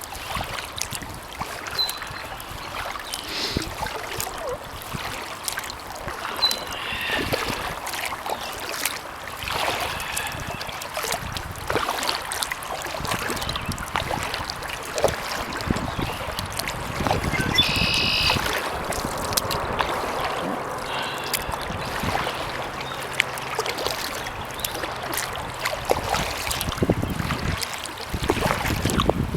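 Kayak paddle strokes, with water splashing and dripping off the blades as the boat moves along.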